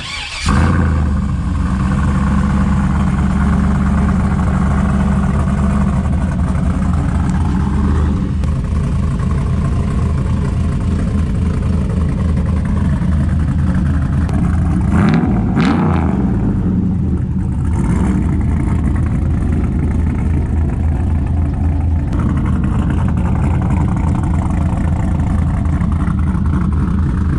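Truck engine starting about half a second in and then running through a new stainless dual exhaust with flow-through mufflers and an X-pipe. It idles steadily, with one brief throttle blip about halfway through.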